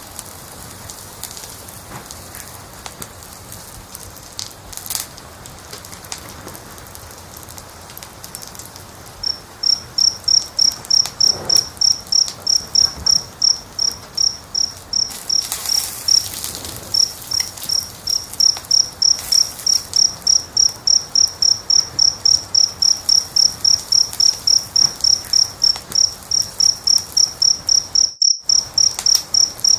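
Wood fire crackling softly with scattered pops. About nine seconds in, a cricket starts chirping steadily, about three high chirps a second, and becomes the loudest sound. Near the end the sound cuts out completely for a moment.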